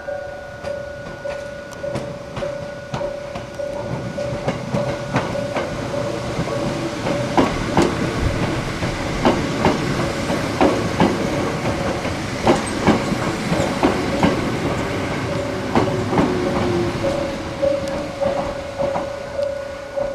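A Hakone Tozan Railway electric train passing, its wheels clacking over the rail joints. The clacks grow louder toward the middle and thin out near the end, and a brief falling whine comes near the end. A steady pulsing tone sounds throughout.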